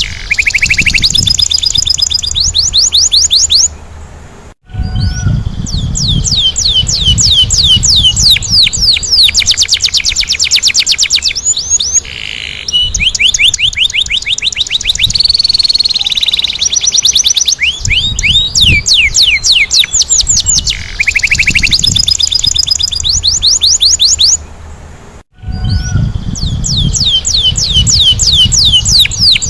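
Domestic canary singing in fast rolling trills: long runs of rapid downward-sweeping notes, many per second, broken by short pauses about four seconds in and near the end, over a low rumble.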